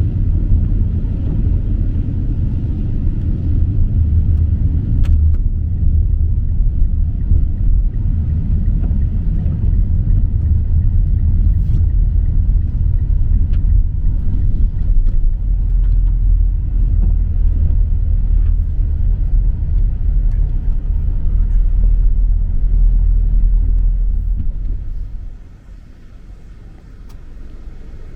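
Steady low vehicle rumble that drops away sharply about 25 seconds in.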